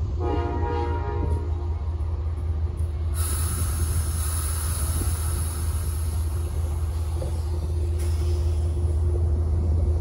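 Standing Amtrak passenger train: a steady low rumble throughout, a horn blast lasting about a second and a half just after the start, then a steady hiss that comes in about three seconds in.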